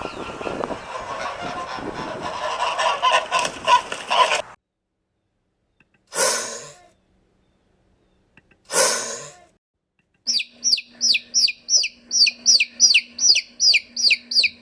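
Bird calls in three separately edited clips. First comes a busy, noisy flock calling for a few seconds. After a silence come two single harsh calls a couple of seconds apart. Last is a rapid run of short falling whistled notes, about three a second.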